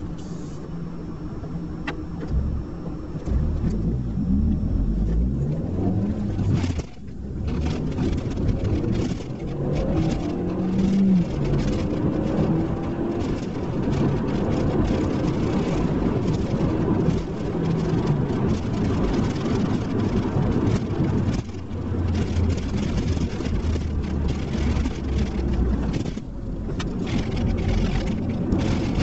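SEAT Leon Cupra R's 2.0 TSI turbocharged four-cylinder engine under hard acceleration, its pitch rising in repeated pulls with brief drops at the gear changes, over heavy road and wind noise.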